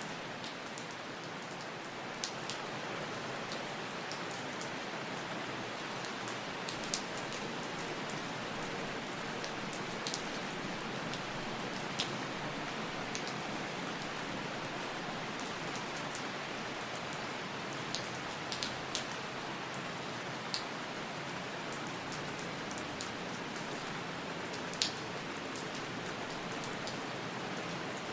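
Steady rain falling, an even hiss with occasional sharper drop ticks scattered through it.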